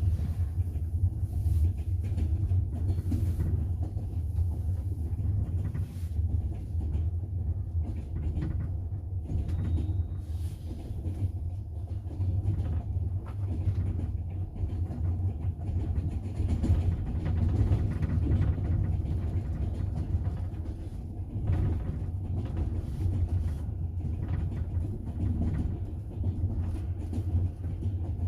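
Steady low rumble of a moving double-decker passenger train, heard from inside the carriage, with faint scattered clicks of the wheels on the rails.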